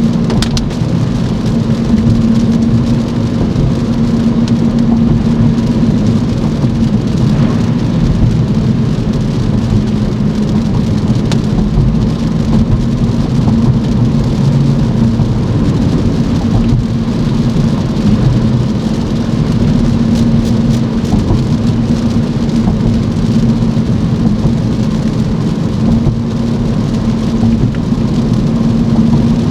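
Car driving in the rain: steady rain noise over a constant low hum of engine and road.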